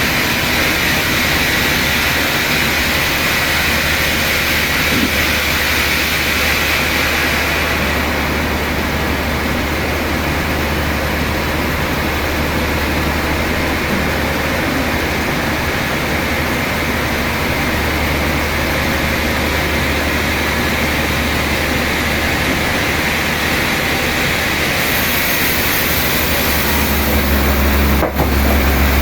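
Steady, loud machinery noise with a constant low hum, typical of sawmill equipment running, changing abruptly near the end.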